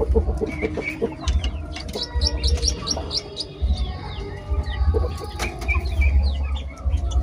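Baby plantain squirrels squeaking: runs of short, high chirps, many falling in pitch, over low buffeting on the microphone.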